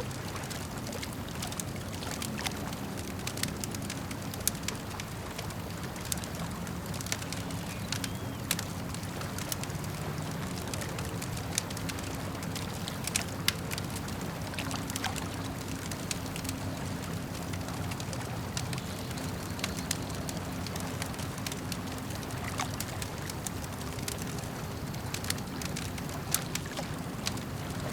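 Campfire crackling with scattered sharp pops, over the steady wash of lake water lapping.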